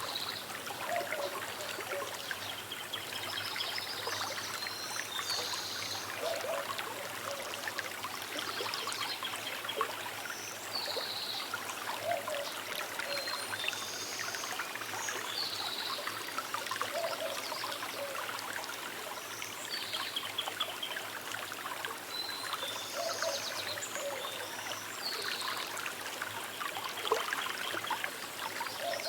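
A small river trickling steadily, with short high bird calls recurring every few seconds.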